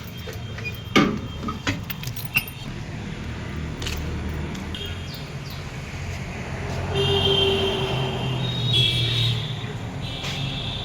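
Tractor engine running steadily, with a few sharp rattling clicks in the first couple of seconds.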